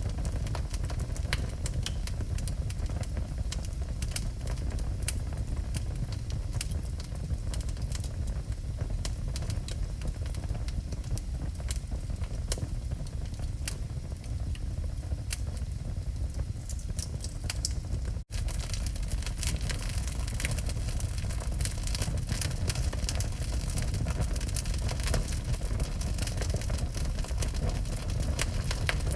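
Wood fire burning in a fireplace: a steady low rumble of the flames with scattered sharp crackles and pops. The sound cuts out for a split second about two-thirds of the way through.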